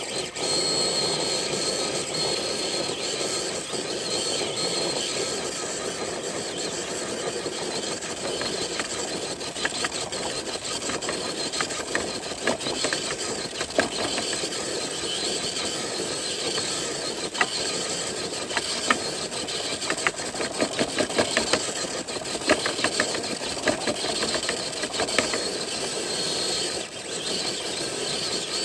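Traxxas TRX4 RC truck's electric motor and geartrain whining steadily under load as it drags a weighted dead sled. Irregular sharp clicks and ticks start about ten seconds in.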